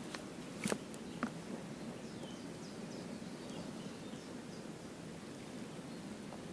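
Outdoor ambience: a steady background hiss with faint, short bird chirps, and a few sharp clicks in the first second or so.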